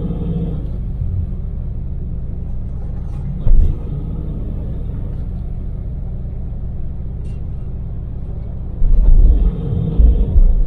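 Daewoo Damas mini van cruising on an expressway: a steady low drone of engine and road noise. One short, loud low thump comes about three and a half seconds in, and a run of loud low thumps near the end.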